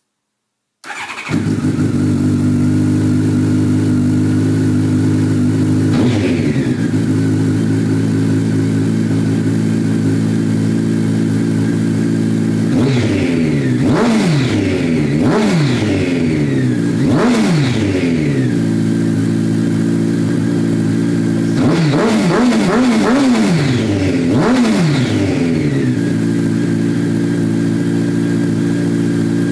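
Honda CBR1100XX Blackbird inline-four motorcycle engine through Scorpion Oval Carbon slip-on silencers with the dB killers removed. It sets in suddenly about a second in and idles, then is blipped: once about six seconds in, then in two clusters of quick revs, each time dropping back to a steady idle.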